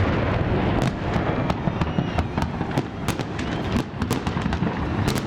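Fireworks salute going off: a rapid, irregular run of sharp crackling pops and bangs over a steady low rumble.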